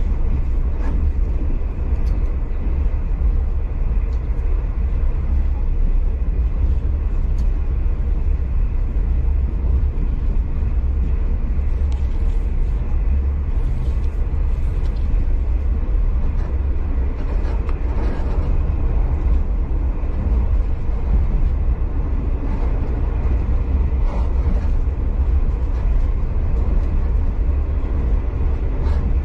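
Steady low rumble of a V/Line passenger train running along the track, heard from inside the carriage. A few faint, brief ticks and squeaks come through around the middle.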